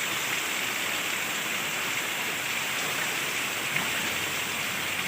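Steady rushing hiss.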